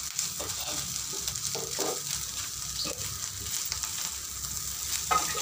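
Fish roe bhuna sizzling in a karai while a spatula stirs and scrapes it, with short irregular scrapes over a steady sizzle, as the roe is fried down until dry and crumbly.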